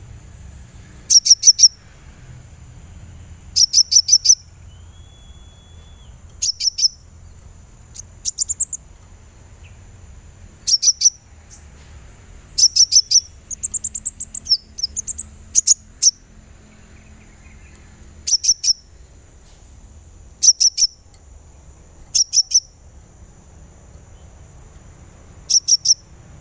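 Sunbird calling: tight bursts of three to five sharp, very high chirps every two to three seconds, with a quicker twittering run about halfway through. A steady low hum and a faint, constant high whine lie underneath.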